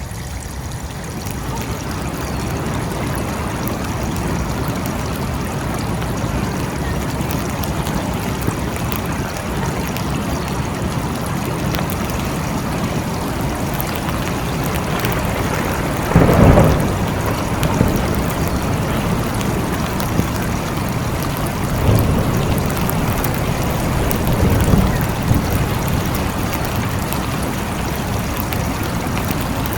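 Steady rain falling. About halfway through comes a short, loud burst of thunder, and a couple of fainter low thunder rumbles follow later.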